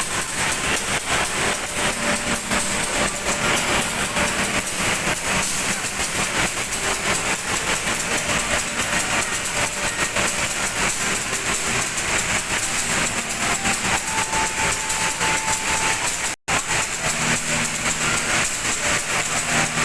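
Passenger train running, heard from aboard a carriage: a steady rumble and rush with a fast rattle of wheels on the rails. The sound cuts out for an instant about three-quarters of the way through.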